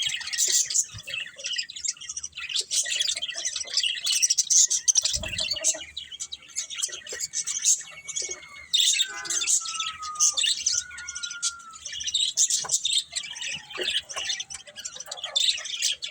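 Budgerigars chirping and chattering in a quick, continuous stream, with a few drawn-out whistles sliding down in pitch about nine to twelve seconds in.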